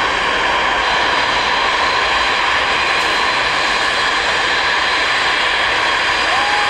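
Antonov An-225's six turbofan engines running, a steady loud jet roar with a constant high whine.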